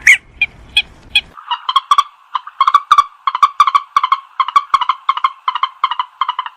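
Purple swamphen calling: a sharp squawk at the start, then a fast run of short, evenly repeated notes, about five a second.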